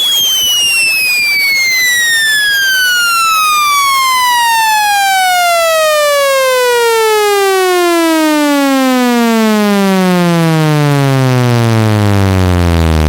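Loud electronic test tone sweeping steadily down in pitch, from a high whistle to a low hum, growing buzzier as it falls. It is a speaker-cleaning sweep, meant to shake water and dust out of a phone speaker.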